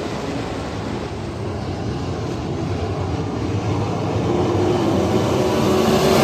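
Sprint car engines running, a dense mechanical din that gets louder over the last couple of seconds.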